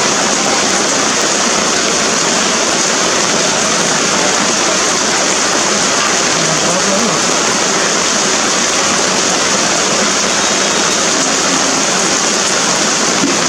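Steady rain falling, an even, unbroken loud hiss.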